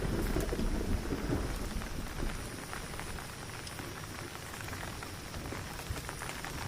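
Steady rain, with many drops pattering, and a low rumble in the first second or so.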